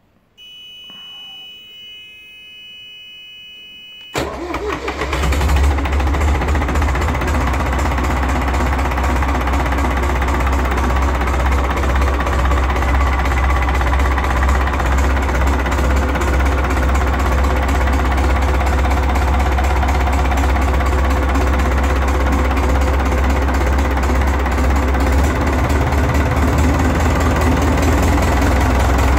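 A steady high electric tone sounds first. About four seconds in, a Ford 2722E marine diesel engine starts abruptly and settles into a steady idle with a strong low drone.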